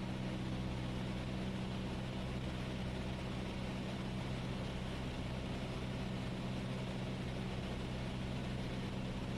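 Cessna 172S's four-cylinder Lycoming engine and propeller droning steadily in flight, with an even engine hum and a haze of airflow noise.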